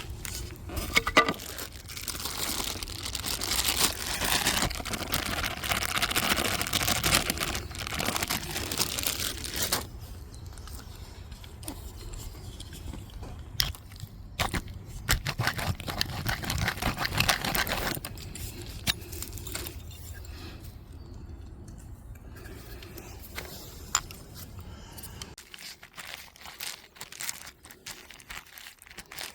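Food preparation handling: rustling packaging, with scattered clicks and knocks as utensils and ingredients are moved. The rustling comes in two spells, a long one in the first ten seconds and a shorter one in the middle.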